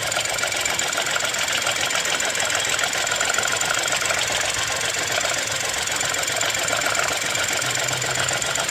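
Geely Coolray's 1.5-litre turbo three-cylinder engine idling steadily with a fast, even ticking, running with a newly fitted ignition coil on cylinder 3 after a misfire.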